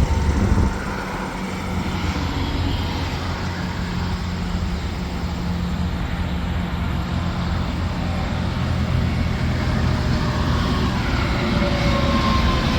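Interstate traffic with tractor-trailers passing and a steady low diesel drone. A loud pass fades about half a second in, and the drone swells again near the end as the next truck approaches.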